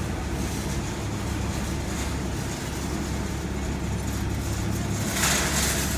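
Road and engine noise of a shuttle van driving: a steady low hum, with a brief louder rush of noise about five seconds in.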